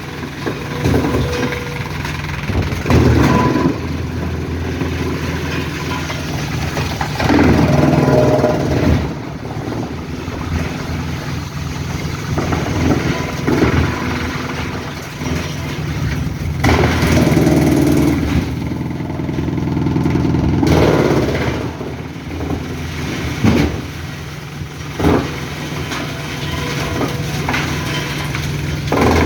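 Engine-driven forestry wood chipper running with a steady engine drone, growing louder in surges of a few seconds as wood is fed in and its knives strike and split the logs.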